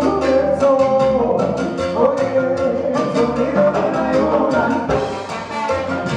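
Live band playing Latin-flavoured music: a steady percussion beat under sustained melody notes.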